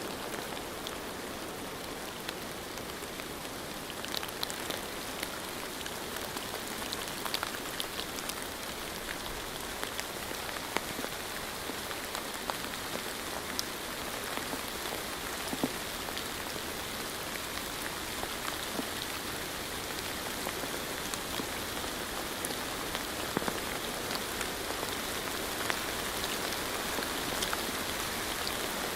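Steady rain falling, a continuous hiss scattered with many distinct drop ticks.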